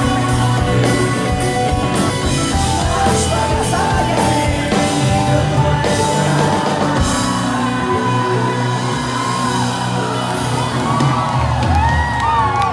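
Live rock band playing, with shouts over the music.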